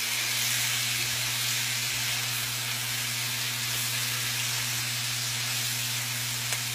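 Green beans, zucchini, kale and mushrooms frying in olive oil in a skillet: a steady sizzle, over a constant low hum.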